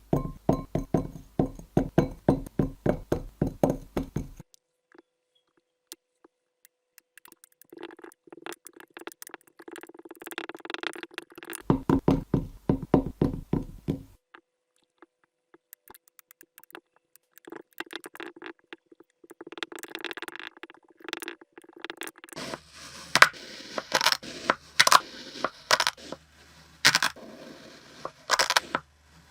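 Kinetic sand being cut and crushed: bursts of rapid, crisp crackling clicks with short pauses between, denser near the end.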